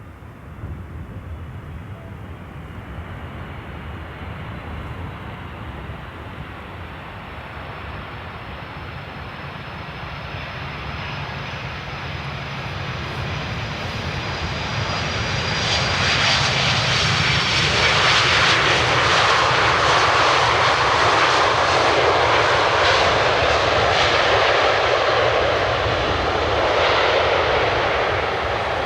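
Jet airliner's engines passing close, the noise building steadily to a loud, continuous rush over the second half, with a thin high whine heard in the middle as it approaches.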